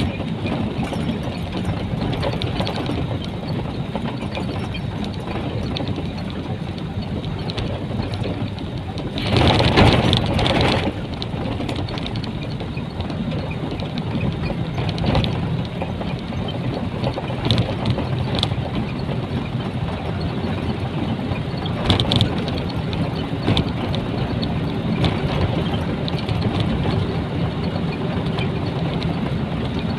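Cab noise of a Nissan Diesel container truck on the move: the diesel engine running steadily under road noise and rattles. A louder rush of noise lasts about a second and a half, some ten seconds in, and a short sharp knock comes a little after twenty seconds.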